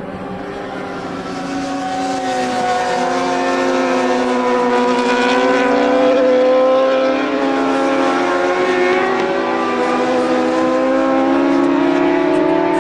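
Road-racing motorcycle engines running hard at speed, growing louder over the first couple of seconds, their pitch drifting up and down as the bikes go through the gears, then climbing again near the end.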